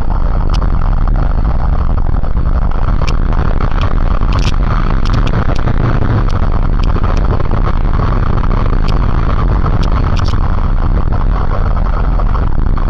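Motorcycle riding at speed: a steady rush of wind buffeting the microphone over the engine's drone, with a few faint sharp clicks.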